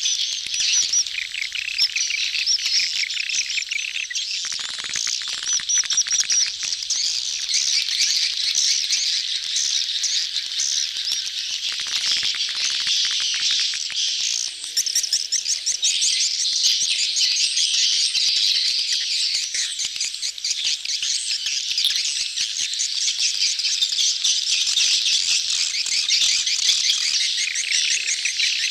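A crowd of swiftlets twittering and chittering at once, a dense, continuous chorus of rapid high calls. It is a swiftlet-house lure call of a colony in breeding, mating condition, played to draw swiftlets in to nest.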